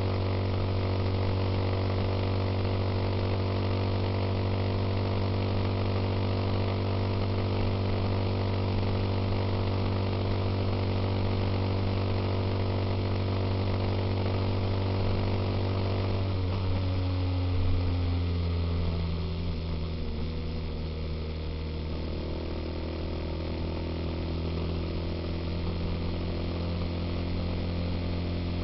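Suzuki Intruder motorcycle engine running steadily while riding, with wind and road noise. A little past halfway the engine note drops over a couple of seconds as the bike slows, then holds steady at lower revs.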